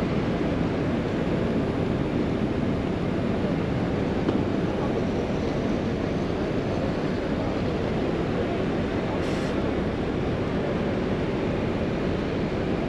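Steady rumble of city street traffic, heard from a bicycle moving through it.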